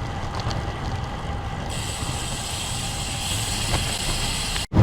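Wind buffeting the microphone and tyre road noise from a road bike being ridden at speed. About two seconds in, a high steady hiss joins the low rumble. The sound cuts out sharply for an instant just before the end.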